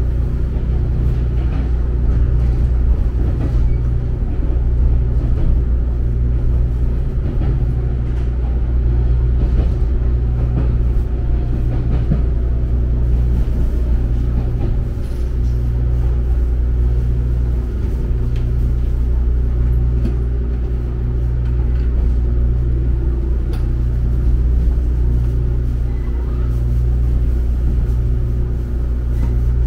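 Steady low rumble and hum inside the carriage of a JNR-era 455/413 series electric multiple unit train, with a few faint clicks.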